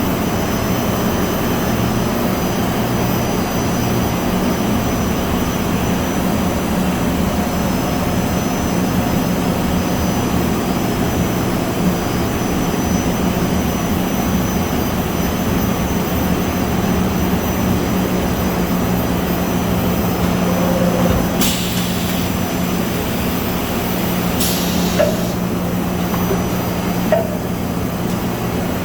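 Extruder line with automatic turret rewinder running: a steady machine hum with a strong low tone and a faint high whine, broken by a few brief clicks in the second half.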